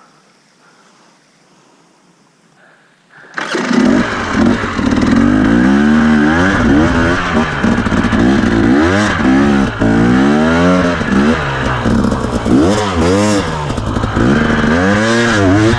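Dirt bike engine revving hard under load, its pitch climbing and dropping again and again with the throttle. It comes in suddenly a few seconds in, after a quiet stretch.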